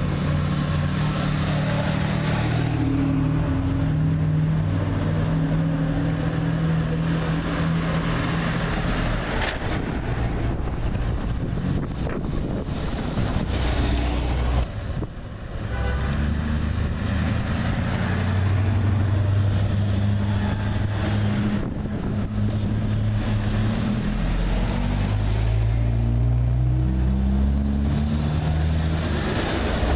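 Classic sports car engines running as the cars drive slowly past one after another: first a 1958 Jaguar XK150, then a 1963 Daimler SP250 V8 after a sudden cut about halfway. Near the end the engine note rises in steps as a car accelerates away through the gears.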